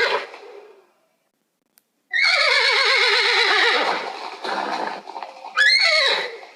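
Horse whinnying: the tail of one call at the start, then after a short silence a long, quavering whinny of about two seconds that falls in pitch, and another whinny beginning near the end.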